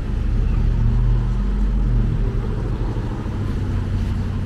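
A motor vehicle's engine running close by, a loud, steady low hum.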